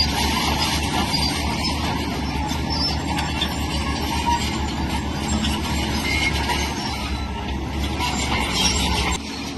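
Tracked earthmoving machine working: diesel engine running under load with steel crawler tracks squealing and clanking. The noise dips slightly near the end.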